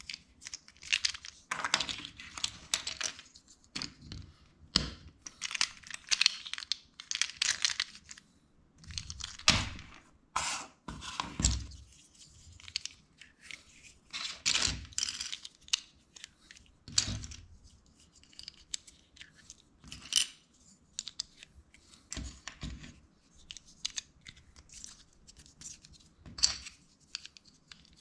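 Plastic LEGO bricks being handled and pressed together: irregular clicks and snaps among rustling, scraping stretches of a second or two.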